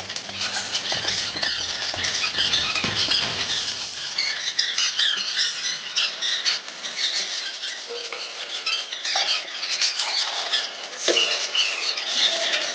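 Hand plastering tool scraping over fresh rough-coat plaster on a wall, in irregular scratchy strokes with small clicks.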